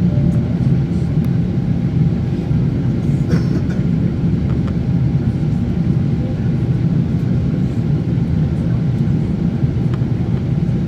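Steady low cabin rumble of a Boeing 777-300ER in flight, heard from inside the cabin: the twin General Electric GE90-115B engines and the airflow over the fuselage.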